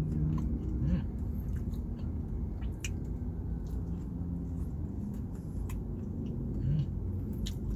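A person chewing a mouthful of burger with a crispy onion ring inside: scattered wet mouth clicks and smacks close to the microphone, over a steady low rumble.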